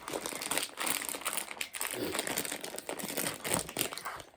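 Plastic snack packet crinkling as it is handled, a dense run of crackles that stops near the end.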